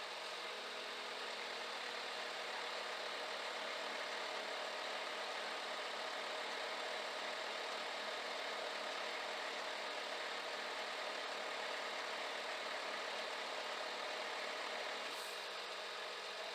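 Scania G410 truck's six-cylinder diesel engine running steadily. A lower hum joins about half a second in and stops with a click near the end.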